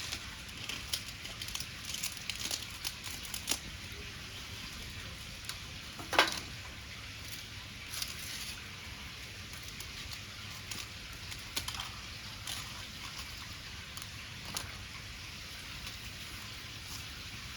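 Wood fire crackling with irregular small pops and one louder pop about six seconds in.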